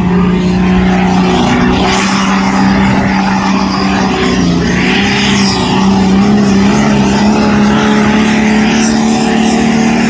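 Modified pulling tractor's engine at full throttle, dragging the weight sledge down the track, quite loud. It holds a steady high-revving note that dips briefly midway and then climbs a little.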